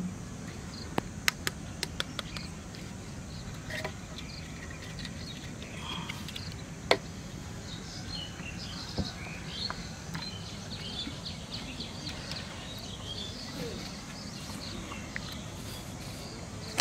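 Small birds chirping over a steady low outdoor background, with a few sharp taps and clicks from handling, the loudest about seven seconds in.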